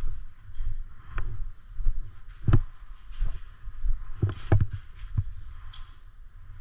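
Irregular sharp clicks and knocks, roughly one every half second to a second, over a steady low rumble of handling and movement noise on a worn camera.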